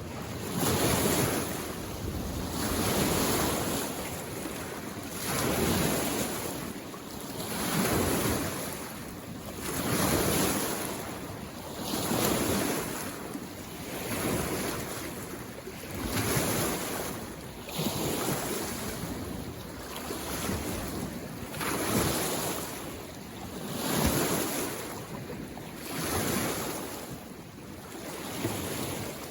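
Small waves on a mountain lake washing in against the shore, one swell about every two seconds in a steady rhythm.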